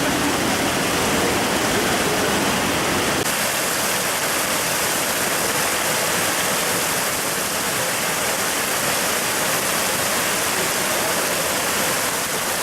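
Waterfall: a steady rush of falling water. About three seconds in it changes abruptly to a brighter hiss with less low rumble.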